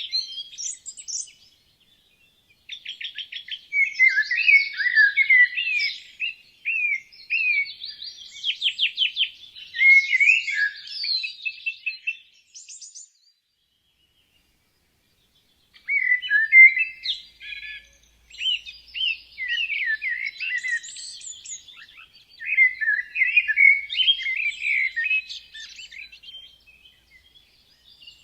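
Songbirds singing: quick runs of chirps and rapid trills, broken by a short pause and, around the middle, a silent gap of about three seconds.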